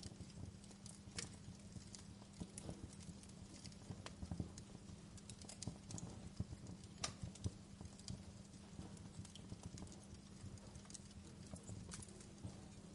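Wood fire crackling in a fireplace: a steady run of small irregular crackles and ticks, with a couple of sharper pops about a second in and about seven seconds in, over a faint steady low hum.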